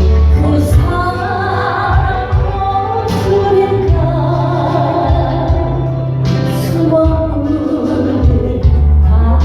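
A woman singing a slow Korean ballad with vibrato over instrumental accompaniment, with long held bass notes underneath.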